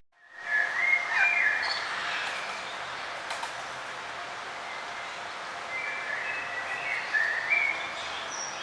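Songbird chirping in short trilling phrases over a steady outdoor background hiss, busiest about a second in and again from about six to eight seconds in. The sound drops out for a moment at the very start and fades back in.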